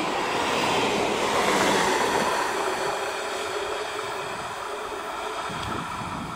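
Broad rushing noise of an electric multiple unit train running on the track, slowly fading.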